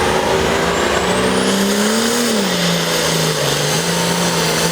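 Pulling tractor's engine running hard under load as it drags the weight sled. Its pitch drops about two seconds in and then holds steady.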